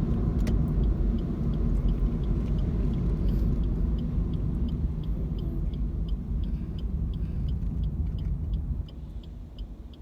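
Car cabin road noise, a steady low rumble from the moving car, with a light regular ticking about three times a second from the turn-signal indicator. The rumble drops noticeably near the end as the car slows.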